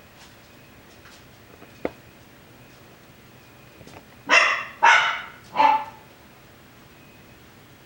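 A Coton de Tulear barks three times in quick succession about four seconds in, sharp yapping barks. A single sharp click comes a couple of seconds before them.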